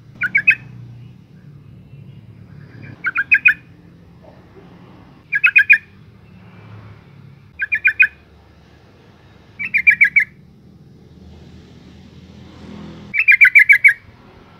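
Female yellow-vented bulbul (trucukan) calling: six short bursts of quick, chattering notes, one about every two to three seconds, the last one longer.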